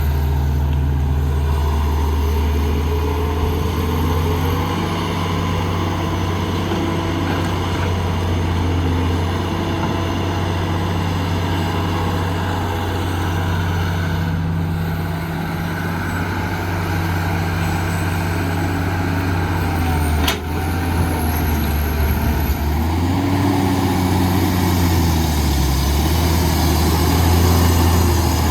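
Heavy construction-machine diesel engine running steadily under load, its pitch dipping and rising a few times near the end, with one sharp click about twenty seconds in.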